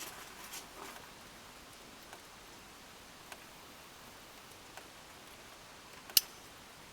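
Faint clicks and light handling of small parts while a backup ring is fitted onto a hydraulic cylinder part, with a few soft ticks and one sharp click about six seconds in.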